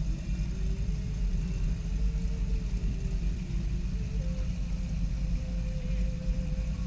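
A car engine running with a steady low rumble, its pitch wavering up and down slightly.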